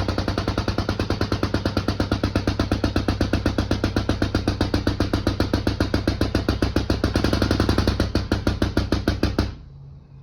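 A workshop power tool hammering in rapid, even strokes, about eight a second, over a low steady hum, stopping suddenly near the end, while silent blocks are being fitted into suspension control arms.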